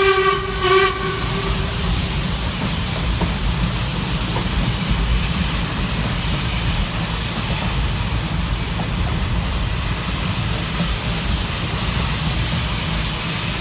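A steam locomotive's whistle sounds over the first two seconds, with a short break in the middle, then stops. After that comes the steady rumble and hiss of a steam-hauled train running, heard from a carriage window.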